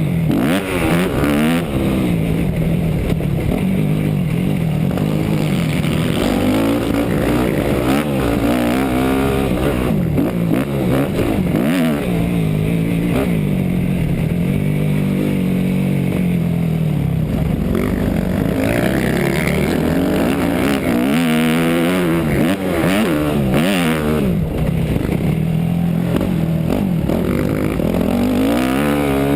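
250 cc four-stroke motocross bike engine heard from on board the bike, revving up and dropping back over and over as the rider accelerates, shifts and rolls off the throttle around the track.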